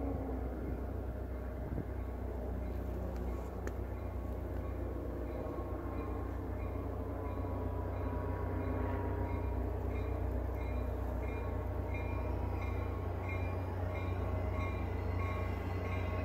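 Passenger train approaching from a distance, a low steady rumble that slowly grows louder; a quick repeating tone starts up about ten seconds in.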